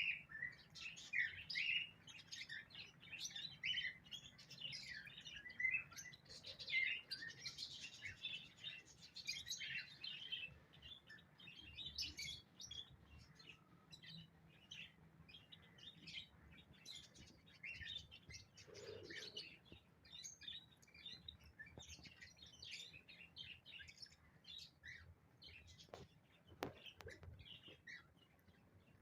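Small pet birds chirping: a dense run of short, high chirps for the first ten seconds or so, thinning out to scattered chirps afterwards.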